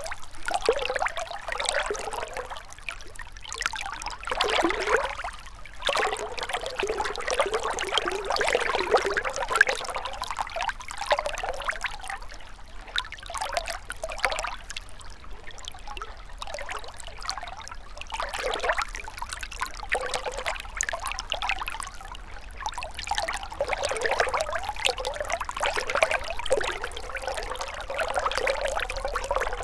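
Gentle river water trickling and splashing, swelling and easing every few seconds.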